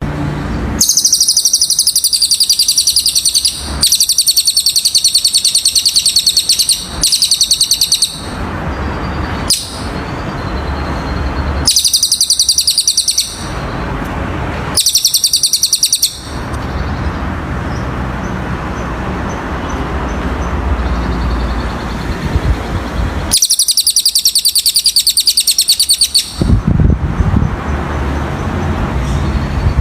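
Cililin bird singing: six loud, very high, rapid trills of one to three seconds each, separated by pauses filled with a low background rumble.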